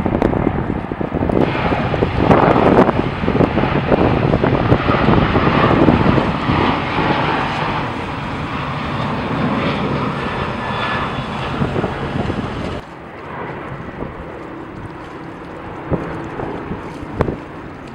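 Airliner engines passing close by, a loud roar that is strongest in the first few seconds and then eases. About 13 seconds in it cuts off suddenly, leaving quieter wind noise on the microphone.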